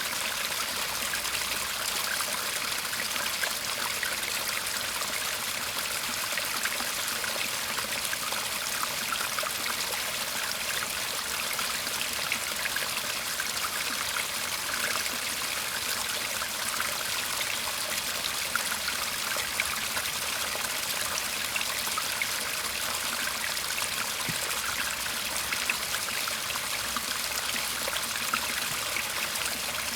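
Small garden stream murmuring and trickling, a steady even rush of water with small scattered splashes.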